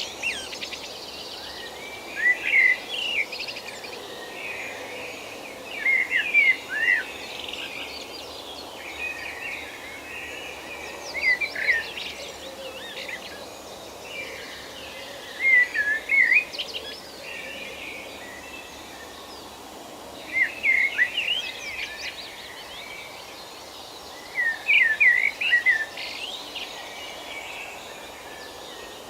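Forest birdsong: a bird repeating a short, chirpy song phrase about every four to five seconds over a steady background hiss.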